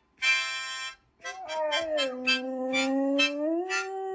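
A harmonica plays a chord, then a dog howls along to it in one long sustained note that dips and then rises near the end, while short harmonica notes keep sounding over the howl.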